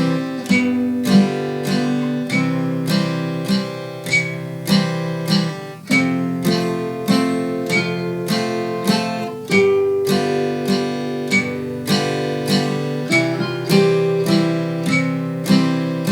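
Acoustic guitar strumming chords in a steady waltz rhythm, each chord struck cleanly and ringing into the next.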